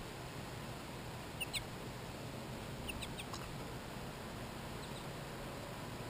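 Short, high bird call notes over a steady hiss: a quick pair about a second and a half in, a cluster of three or four near the middle, and two faint ones near the end.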